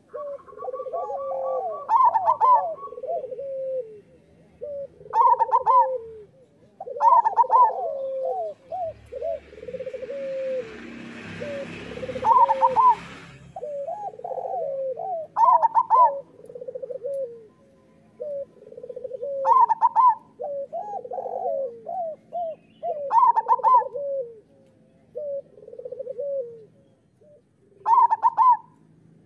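Zebra doves (local perkutut) cooing: a loud, higher cooing phrase repeats about every three to four seconds, with lower, softer cooing notes filling the gaps. A few seconds of hissing noise rise and fade around the middle.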